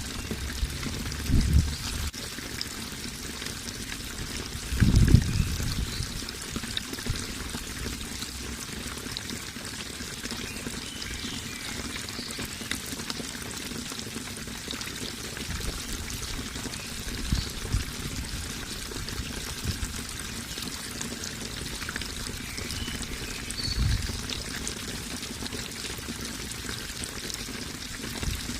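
Running water pouring and trickling steadily, like a small waterfall or stream. A few short, low thumps come about a second in, about five seconds in, and twice more later on.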